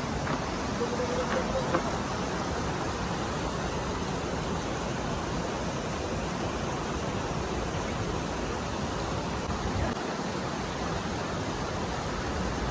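Steady rushing noise of flowing water, with wind buffeting the microphone. A faint short whistle-like tone comes about a second in.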